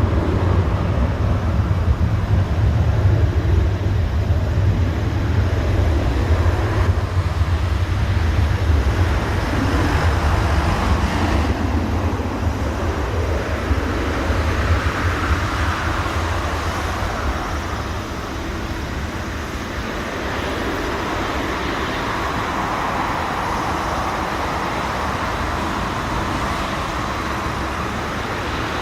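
Boeing 777-300ER's GE90 jet engines, heard as a loud steady rushing noise over a heavy low rumble that eases about sixteen seconds in.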